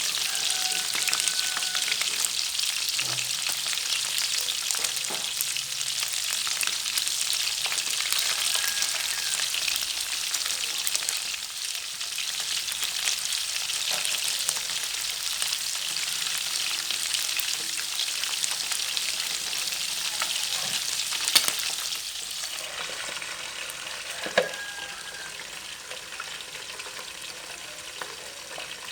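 Freshwater field fish frying in hot oil, a dense steady crackle and sizzle with a few sharp clicks of a utensil. The high crackle eases off near the end.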